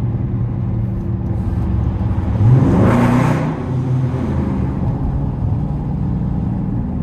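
Dodge Charger SRT's V8 engine and road noise heard from inside the cabin while driving: a steady low drone that swells briefly, rising in pitch, about three seconds in.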